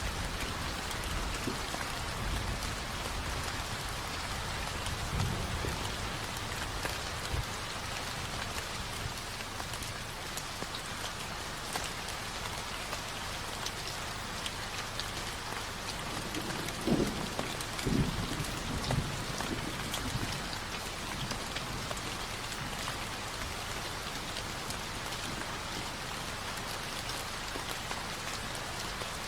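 Steady rain falling and pattering on surfaces, an even hiss throughout. A couple of brief low thumps come about 17 and 18 seconds in.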